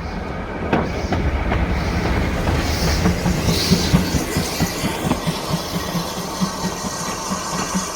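LMS Black Five steam locomotive moving slowly as it runs round its train, its wheels clicking rapidly over rail joints and pointwork, with a brief hiss of steam about three and a half seconds in.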